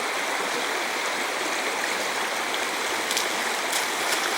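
Mountain river rushing steadily over its rocky bed, a constant full hiss of flowing water, with a few faint ticks or splashes about three seconds in.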